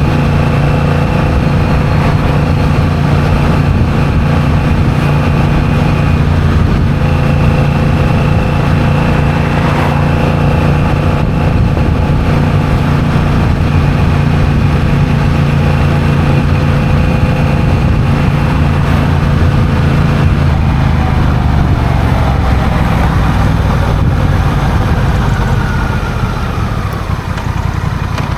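Honda CMX1100 Rebel's parallel-twin engine running steadily under way. In the last several seconds the engine pitch falls as the bike slows.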